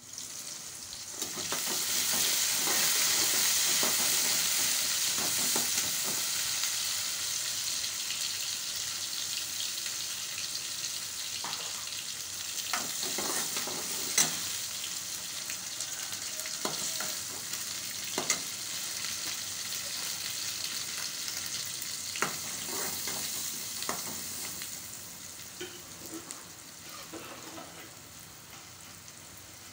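Oil sizzling as chopped onions, garlic and green chillies fry in a metal kadai, with a spatula stirring and now and then knocking against the pan. The sizzle starts about a second in, is loudest over the next few seconds and slowly fades toward the end.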